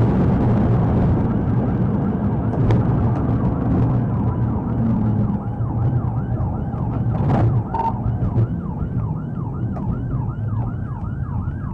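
Police car siren in yelp mode, fast repeating sweeps about two or three a second, over heavy engine and road noise from the moving patrol car. The siren becomes clear a few seconds in, and a few short clicks sound over it.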